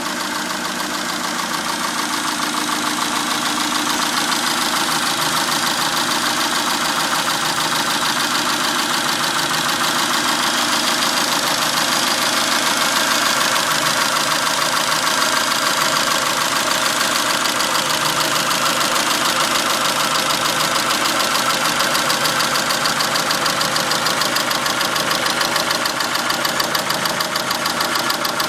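2002 Dodge Neon's 2.0L four-cylinder engine idling steadily with a fast, even ticking. The owner is unsure whether the tick comes from the valves, the exhaust or something worse.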